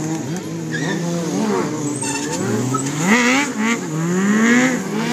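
Stunt motorcycle engines revving up and down as the bikes ride tight circles. The pitch keeps climbing and dropping, with stronger rising revs about three seconds in and again near the end.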